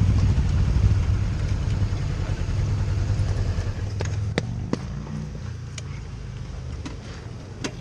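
Low rumble of a motorcycle and wind, slowly fading, with a few sharp clicks from about four seconds in.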